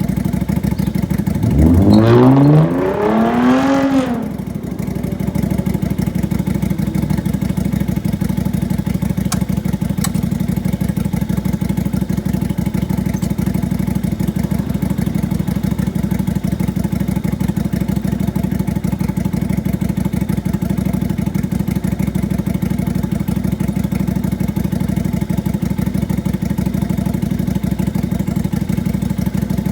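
Lifan Lycan 250 V-twin motorcycle engine running after a full service with valve clearance set and a new ignition coil. It is revved once soon after the start, the pitch climbing and falling back over about three seconds, then it idles steadily.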